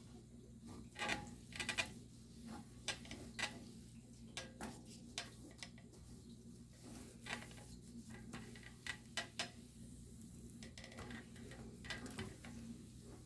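Scattered light clicks and taps, a few with a brief ring, as a bird cage tray is wiped down with a rag, over a faint steady hum.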